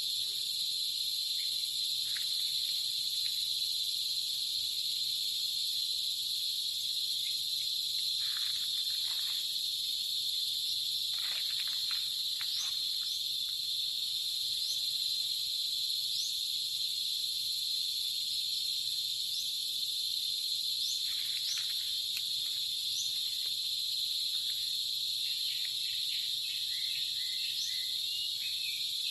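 Steady chorus of insects trilling, several high-pitched unbroken tones layered together. Short faint rising chirps are scattered through it. A quicker pulsing call joins lower down about 25 seconds in.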